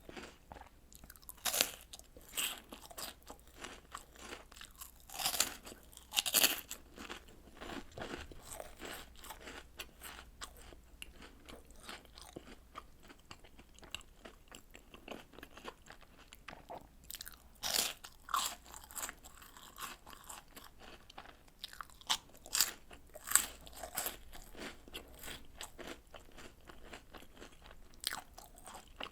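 Close-miked crunching and chewing of chocolate snacks and cereal soaked in milk: a steady run of small wet clicks, with louder crunchy bites about a second and a half in, around five to six seconds, near eighteen seconds and around twenty-two to twenty-three seconds.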